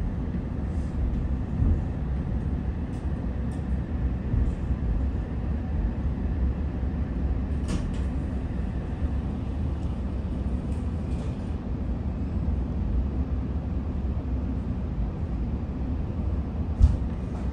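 Interior of an electric passenger train pulling out of a station: a steady low rumble of motors and wheels on track, with a few light clicks and one sharper knock near the end.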